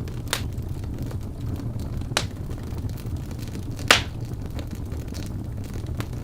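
Birch wood burning in a fireplace: a steady low rumble of the flames with sharp crackles and pops, three strong ones about two seconds apart, the loudest a little before the middle.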